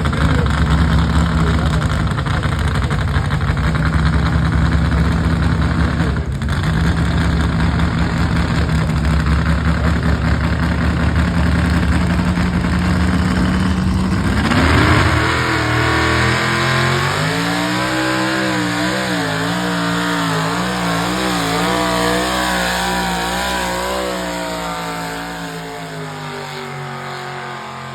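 Engine of a pulling vehicle running hard and steady, then its pitch climbs about halfway through and wavers up and down as it labours on, fading somewhat near the end.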